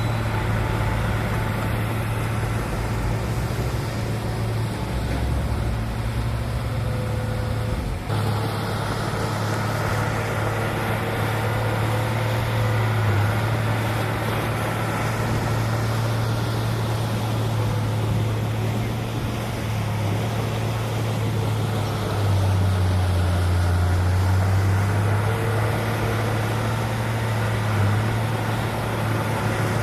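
Heavy diesel engine of earthmoving machinery running steadily with a low drone. The sound changes abruptly about eight seconds in.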